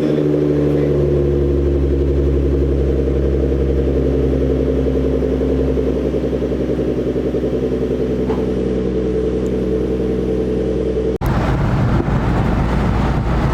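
Car engine running while driving, a steady pitched drone whose pitch sinks slowly over about eleven seconds. About eleven seconds in it cuts suddenly to a rougher, noisier engine and road sound.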